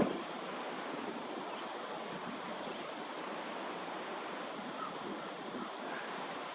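Steady rushing of wind, an even noise with no distinct events.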